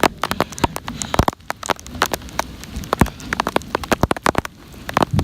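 Heavy rain pouring down, with many sharp, irregular taps of individual drops striking close by over a steady hiss.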